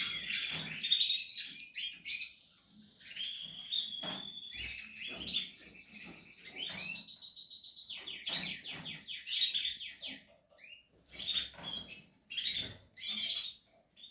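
Portuguese harlequin canaries chirping and calling, with short trills of rapid repeated notes about seven and eight seconds in, and a few small knocks among the calls.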